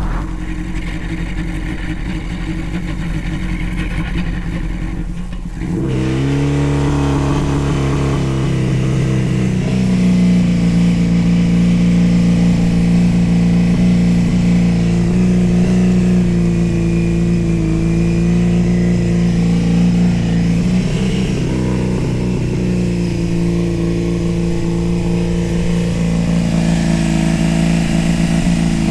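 A go-kart's 600cc engine running under way. About six seconds in it picks up sharply in revs, then holds a steady, higher drone with small rises and dips; its builder says the engine is not running right.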